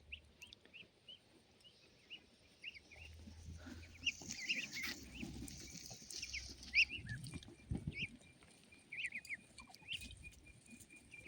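Ducklings peeping in short, repeated high chirps, with a faster run of even peeps near the end.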